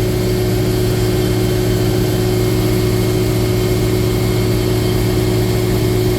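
A Freightliner M2 asphalt patch truck's Cummins diesel idling, with the rear asphalt heating system running. It makes a steady, unchanging hum that holds one pitch.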